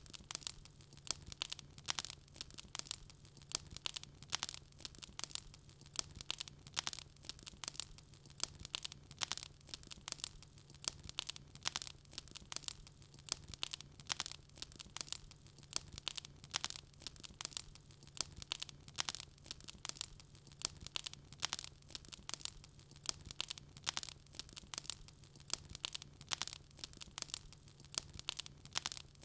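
Wood fire crackling steadily, with many sharp irregular pops and snaps over a faint low hum.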